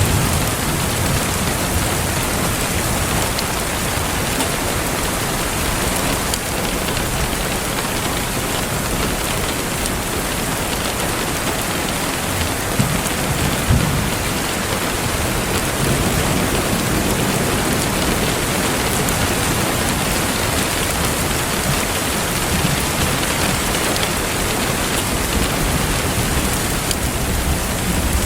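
Steady rain hissing on a surface, with occasional faint crackles from a wood fire. A low rumble of thunder swells up about halfway through.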